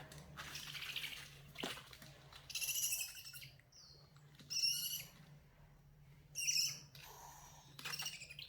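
Owl chick giving a series of short, raspy, hissing calls, about five of them, one every second or two. A brief click comes between the first two.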